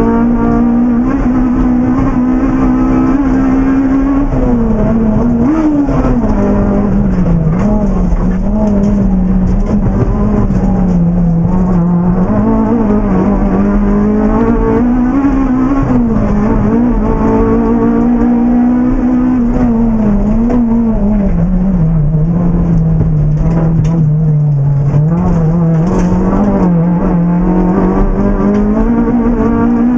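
Honda Civic Type R EP3's K20A four-cylinder VTEC engine at high revs, heard from inside the cabin, its pitch climbing and dropping over and over as the car is driven hard on a rally stage.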